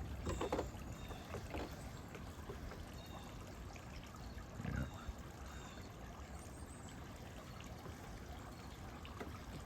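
Faint steady trickle of pond water, with a few short high chirps from small birds and one low thump about halfway through.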